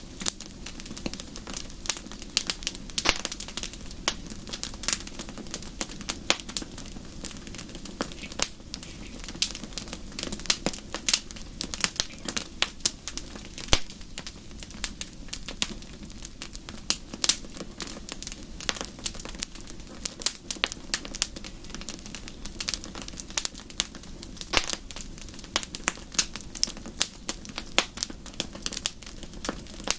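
Fire in a fireplace crackling: dense, irregular pops and snaps throughout, over a low steady rumble.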